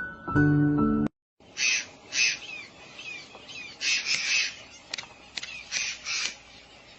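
Soft music for about a second, then birds calling in short repeated bursts, several groups of two or three calls, with a few sharp clicks among them.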